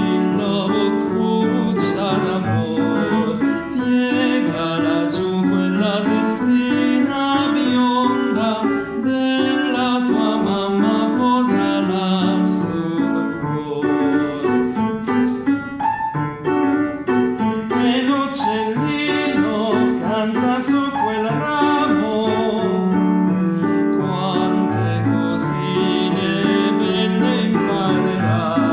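A tenor singing an Italian art song with piano accompaniment, recorded live.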